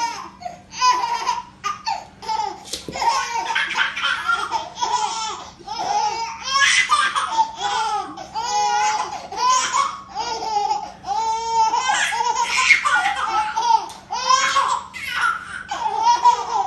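A baby laughing hysterically in repeated high-pitched fits of laughter, with short breaths between bursts.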